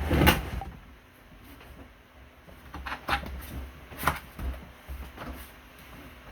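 Handling noises: a heavy thump at the start, then a few scattered knocks and clicks about three and four seconds in.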